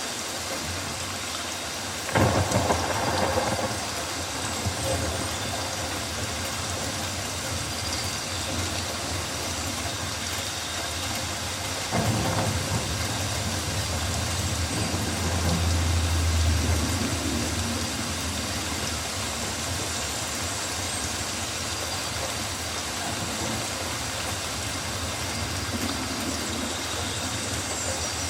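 Steady rainforest rain, with two rolls of thunder: a sudden crack about two seconds in, then another about twelve seconds in that grows into a deep rumble, loudest around sixteen seconds.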